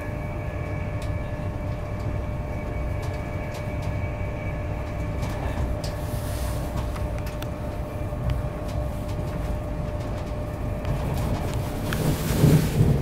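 Interior running noise of an Intercity 225 Mark 4 passenger coach travelling at speed: a steady low rumble of wheels on rail with a faint whine that fades about halfway through. Near the end comes a brief, louder rustling scrape.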